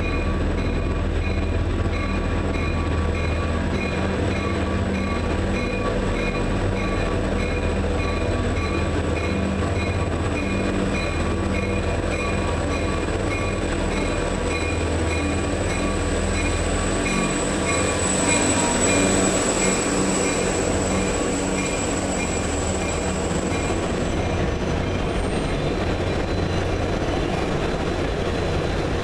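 Passenger train rolling through a tunnel: a steady low locomotive rumble with the locomotive's bell ringing about twice a second. A thin, high steady wheel squeal swells through the middle and stops about two-thirds of the way through.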